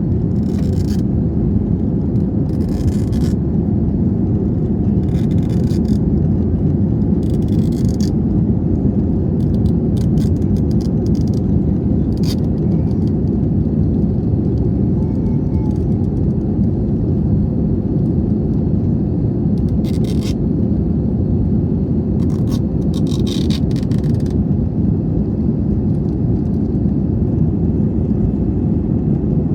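Steady low rumble of an airliner's cabin, with a few short scratchy noises scattered through it.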